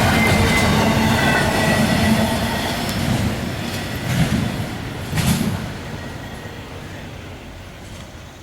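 CSX intermodal freight train rolling past, wheels rumbling and clattering on the rails with a faint wheel squeal early on and a couple of louder clanks midway. The sound fades steadily as the train moves away.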